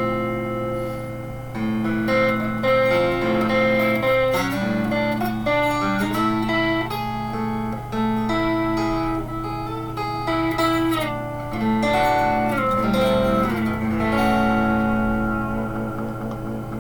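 Fender electric guitar, freshly strung with Yamaha 009–042 super light gauge strings, played through an amplifier: a melodic line of sustained single notes and chords, with a few bent notes past the middle, over a steady low hum.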